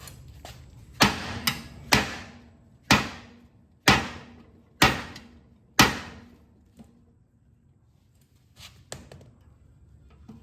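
Hammer striking a mower deck spindle hub to drive out the bearing without a press: six hard blows about a second apart, each with a short ringing decay, then a few lighter knocks near the end.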